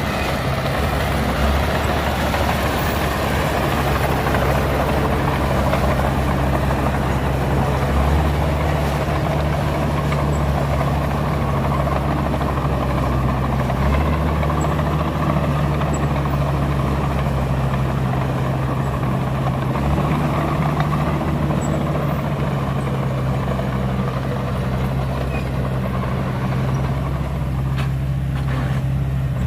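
Heavy diesel engine of earthmoving machinery running steadily, a low even drone whose pitch shifts slightly now and then.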